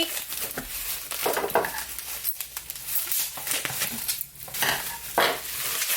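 Packaging rustling and crinkling, with light clinks and knocks, as a candle is unpacked and handled.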